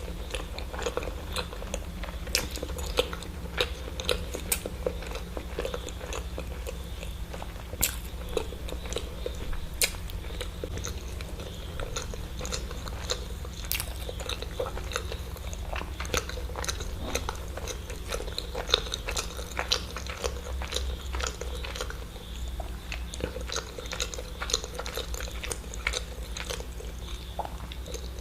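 Close-miked eating: a person biting and chewing eggs, with many sharp irregular mouth clicks and smacks over a steady low hum.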